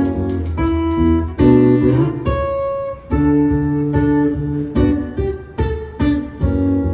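Acoustic guitar strumming chords in an instrumental passage between sung lines of a live song, with a bass line underneath.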